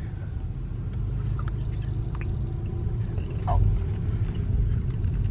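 Steady low rumble of a car being driven, its engine and tyres heard from inside the cabin, swelling a little about three and a half seconds in, with a few faint ticks.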